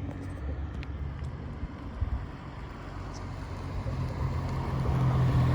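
Alfa Romeo Giulia 2.0-litre four-cylinder running at low speed through a freshly fitted Madness Monza performance exhaust: a steady low exhaust rumble that grows louder near the end.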